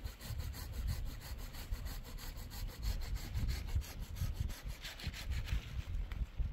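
Fast, even scraping or rubbing strokes, several a second, over a low wind rumble on the microphone.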